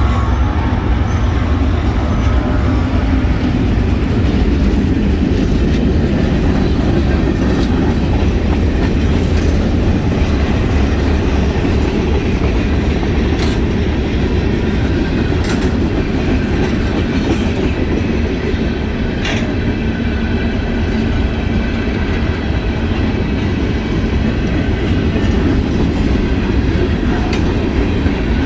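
CSX mixed freight train rolling past: a steady heavy rumble of steel wheels on the rails, with scattered sharp clicks and clatter as the cars go by.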